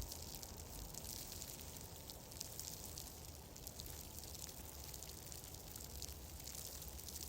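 Fireplace fire crackling softly: a dense sprinkle of fine ticks over a steady hiss and a low rumble.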